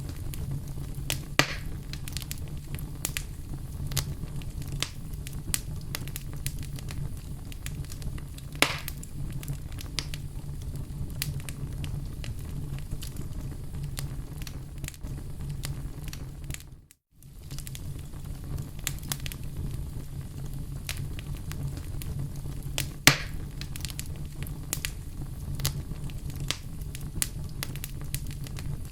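Fire burning in a fireplace: a steady low rumble with constant small crackles and a few sharper pops. The sound drops out for a moment about two-thirds of the way through.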